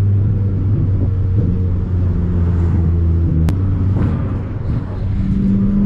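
Toyota Corolla T-Sport track car's engine running steadily at low revs while driving in town traffic, heard from inside the car, with slight shifts in pitch. A single sharp click about three and a half seconds in.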